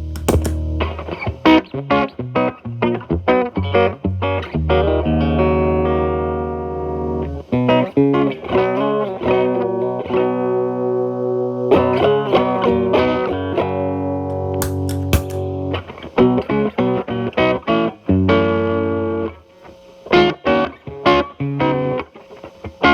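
Fender Telecaster played through an MI Audio Crunch Box distortion pedal with the gain at 9, into the clean channel of a Marshall Valvestate amp. It plays distorted picked notes and ringing, sustained chords, turning to quick choppy picking in the last few seconds.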